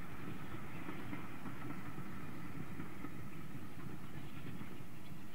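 Distant steam-hauled train running along the line, a steady low rumble.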